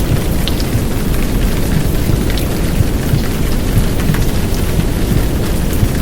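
Heavy downpour of rain blended with a deep, steady womb-sound rumble, with scattered faint drip ticks above it.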